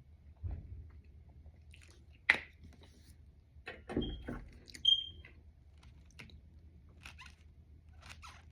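Close-miked eating sounds: biting and chewing, with scattered short mouth clicks and crunches and a sharp click about two seconds in. Two brief, bright ringing clinks come near the middle.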